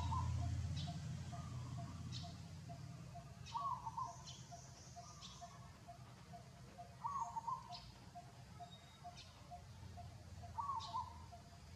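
Birds calling: a steady series of short low notes about two or three a second, a short call repeated about every three and a half seconds, and thin high chirps, over a low rumble that fades away in the first couple of seconds.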